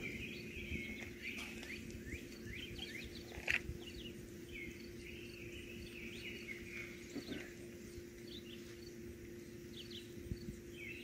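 Songbirds chirping and singing in short repeated phrases over a low steady hum, with an occasional soft knock.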